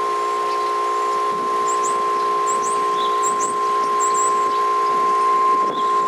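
Federal Signal Model 5 outdoor warning siren sounding a loud, steady tone that holds one pitch without rising or falling.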